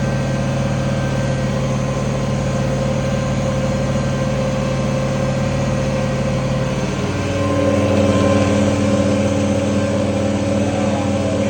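International 1566 tractor's turbocharged six-cylinder diesel running steadily under load while pulling a field cultivator. About seven seconds in, the engine note changes and gets a little louder.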